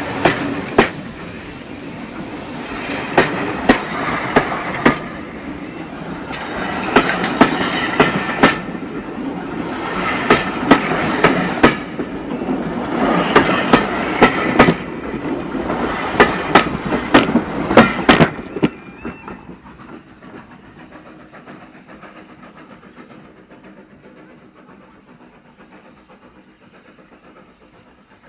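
Railway coaches rolling directly overhead, their wheels rumbling on the rails with sharp clicks and a swell in the noise every few seconds as each bogie passes. About nineteen seconds in the last coach clears and the sound drops to a faint, fading rumble.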